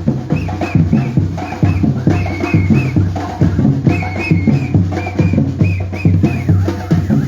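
Batucada drum group playing a fast street rhythm: steady deep bass-drum beats under rapid drum and wood-block strokes, with a short high melodic figure repeating over the top.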